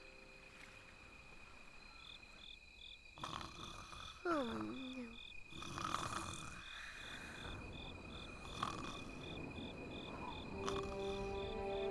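Cartoon night ambience: crickets chirping in a regular pulse of about three chirps a second over a steady high insect trill. A rushing noise swells in the middle, with a short falling call about four seconds in, and music notes begin near the end.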